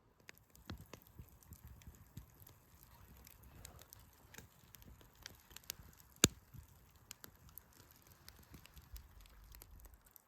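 Wood campfire crackling with irregular small snaps, and one sharp loud pop about six seconds in.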